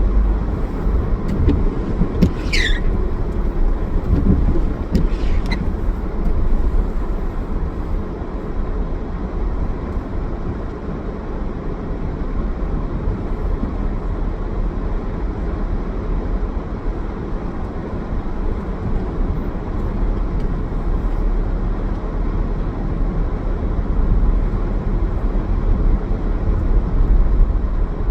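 A car being driven: steady low engine and road rumble, with two brief high squeaks a few seconds in.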